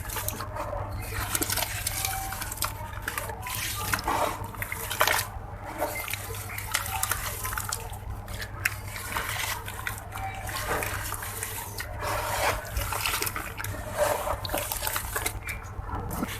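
Grainy red sand-cement blocks dipped in water, crumbling and breaking up with continuous irregular crackling and wet, sloshing water sounds.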